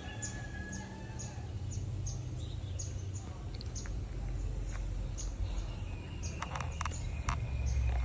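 Rural outdoor ambience: a bird repeats a short high chirp about twice a second over a steady low rumble, with a brief whistle near the start. From about six seconds in come a few sharp knocks.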